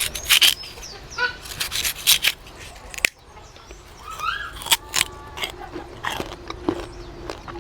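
Forest ambience: birds chirping in short rising and falling calls, among scattered sharp clicks and snaps.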